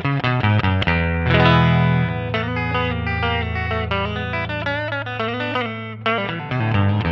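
Electric guitar, a Fender Stratocaster, played through an amp model of a Nux MG300 multi-effects processor: a quick run of picked notes over a low note that rings from about a second in until about six seconds.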